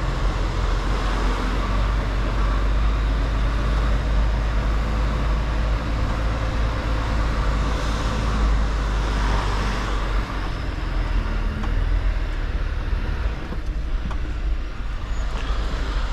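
Mercedes-Benz Actros L truck running on the move: a steady deep diesel drone with road and tyre noise, easing slightly for a moment near the end.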